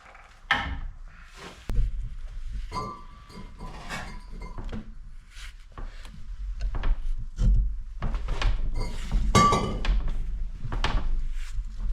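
Metal parts and tools being handled: a run of irregular knocks and clinks, some ringing briefly, the loudest about nine and a half seconds in.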